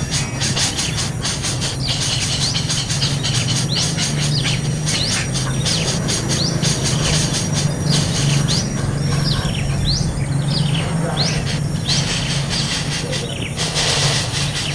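Small birds chirping in many short, quick calls, busiest in the second half, over a steady low hum and a steady high-pitched insect drone.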